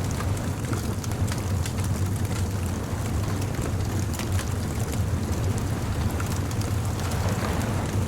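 Bonfire crackling, with frequent small sharp pops over a steady low rumble.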